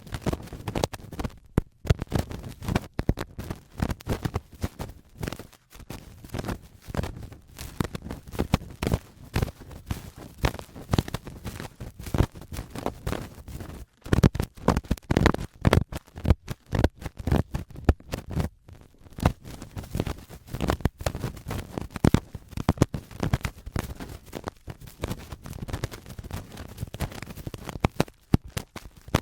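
Adhesive cotton swab rubbing and scraping on a microphone in ear-cleaning ASMR: a dense, irregular run of crunchy, grinding scrapes and crackles that breaks off briefly about halfway through.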